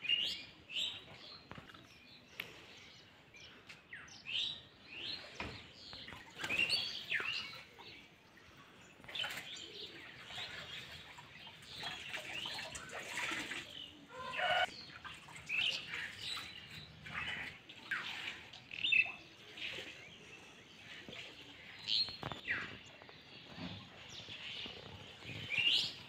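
Several birds chirping and calling, a busy scatter of short high chirps and quick falling whistles, with a lower call about halfway through.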